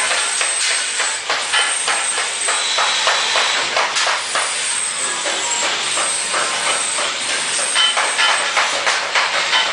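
Welding arc crackling and hissing steadily, a dense run of irregular pops and snaps over a constant sizzle.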